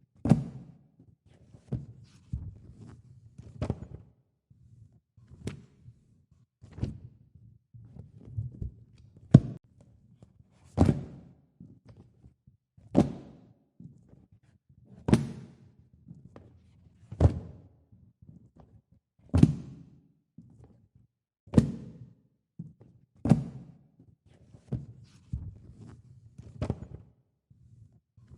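Pages of a printed coloring book being turned one after another, each turn ending in a sharp slap about every two seconds, with quieter paper taps and rustles between.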